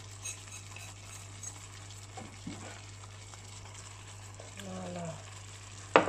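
Ground spice paste sizzling softly in a stainless wok as it fries down, its added water almost cooked off, over a steady low hum, with a sharp knock near the end.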